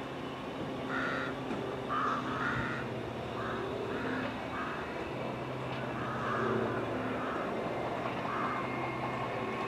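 A crow cawing, a series of short caws every half second to second or so, over a steady low hum.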